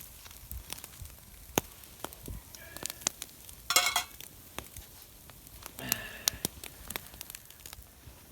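Bacon sizzling and spitting in a pan over a campfire, with many scattered sharp crackles and pops. There is a brief louder burst a little under four seconds in and a smaller one about six seconds in.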